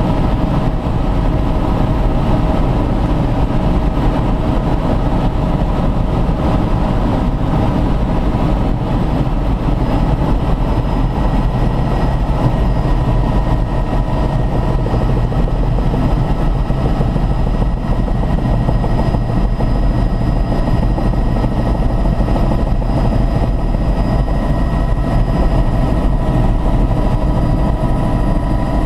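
Helicopter engine and rotor running steadily: a continuous low drone with a steady high whine on top.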